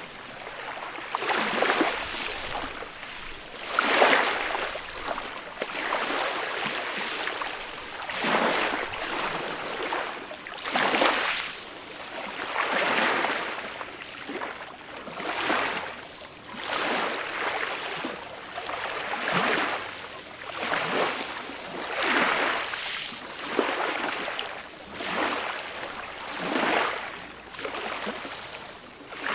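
Small, gentle sea waves washing up onto a beach, one after another, each a swelling hiss of water that rises and fades about every two seconds.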